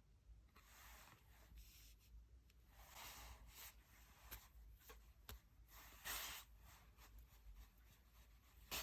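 Faint rustling and light clicks of tarot cards being handled, with a sharper click near the end.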